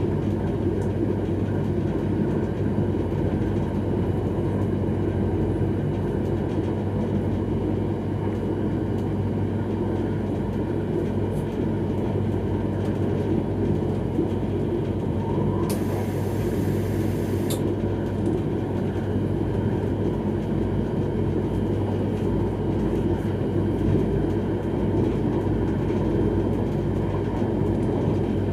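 X31 electric multiple unit train running at speed, its steady rolling and running noise heard from inside the rear cab, with a constant low hum. A short high hiss lasts about two seconds a little past halfway through.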